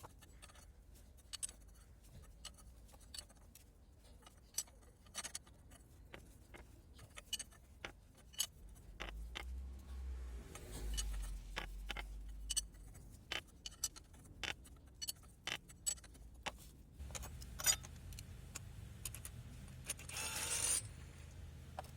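Scattered light metallic clicks and clinks of hand tools and parts being handled during work on a front wheel hub, with a short scraping rush near the end. A low rumble comes and goes underneath.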